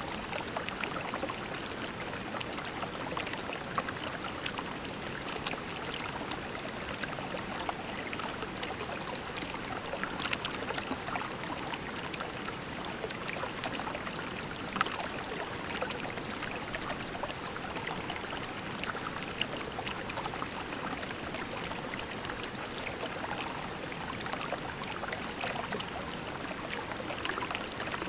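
Shallow creek flowing over pebbles: a steady, even rush of water with many small splashes and trickles scattered through it.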